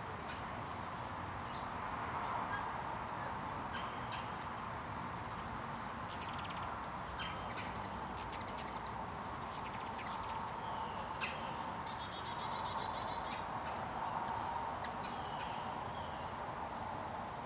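Birds chirping: scattered short high calls and one buzzy trill a little past the middle, over a steady background hum of a rural outdoor scene.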